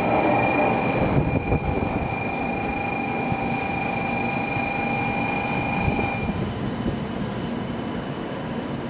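Shinkansen train pulling in along the platform: a steady rumble with a high squealing whine from the braking train that stops about six seconds in, leaving the rumble to fade slightly.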